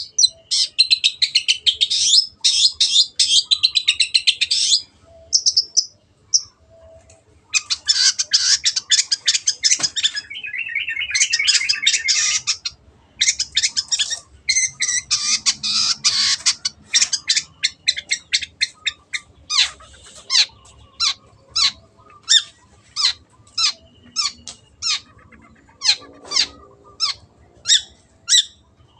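Long-tailed shrike (cendet) singing: long bursts of fast, harsh, high chattering in the first half, then a run of separate short calls at about two a second.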